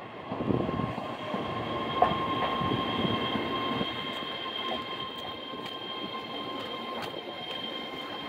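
Keihan 10000 series electric train arriving at the station, its wheels rumbling on the rails with a steady high-pitched squeal, and a sharp clack about two seconds in.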